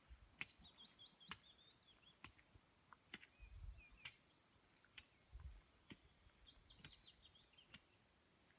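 Faint songbird song: a phrase of quick descending notes at the start and another near the end, over faint, evenly spaced ticks a little under one a second and a few low rumbles.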